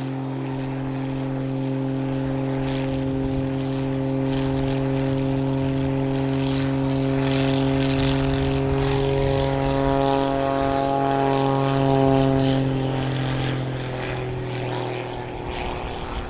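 Pitts Special aerobatic biplane's engine and propeller droning steadily overhead, growing louder, then dropping in pitch and fading as it passes near the end.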